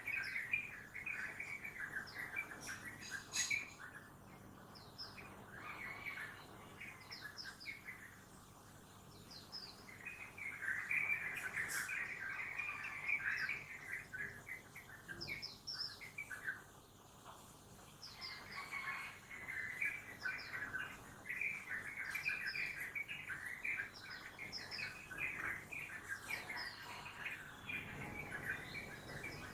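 A dense dawn chorus of many birds chirping and singing at once, thinning briefly twice, over a faint low steady hum of city noise.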